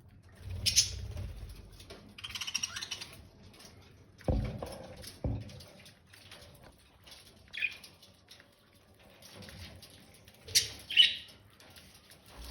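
Pet budgerigars giving short chirps and squawks in scattered bursts, with a warbling chatter about two seconds in and a pair of sharp calls near the end. Two dull thumps come around four and five seconds in.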